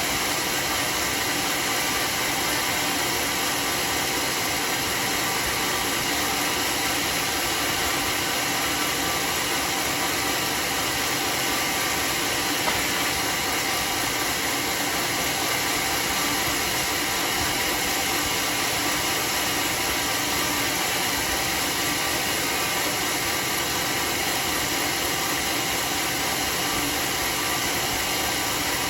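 Homemade sawmill running steadily, its motor and spinning saw making an even, unchanging mechanical drone.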